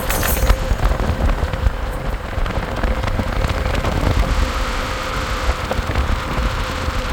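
Wind buffeting the microphone and road noise on a moving ride, a heavy uneven rumble with a faint steady hum and scattered ticks.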